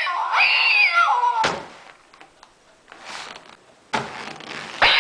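A cat meowing loudly in a drawn-out yowl that bends in pitch, over the first second and a half. A short knock follows, then quieter shuffling noise, and another meow starts near the end.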